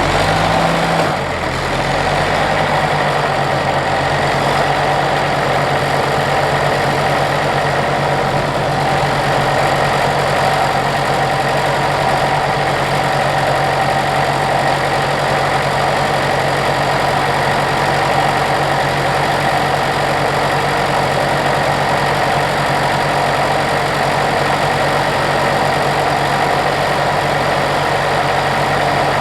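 Ferguson TEF tractor's four-cylinder diesel engine idling steadily, with a brief change in note about a second in.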